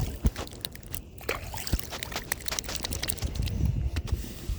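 Water trickling and splashing close to a kayak, with many small clicks and knocks.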